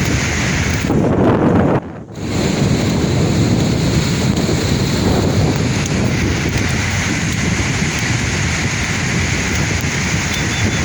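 Sea waves washing onto a shore in a continuous surf, swelling about a second in. The sound cuts out briefly near two seconds in, then the surf goes on steadily.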